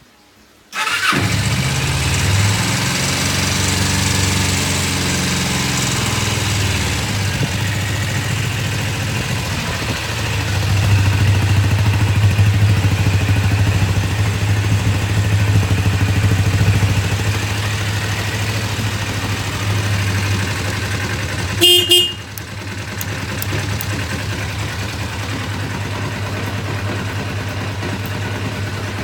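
Kawasaki ZZ-R250's parallel-twin engine starting up about a second in and then running steadily at idle. Near the end, a short horn beep sounds once.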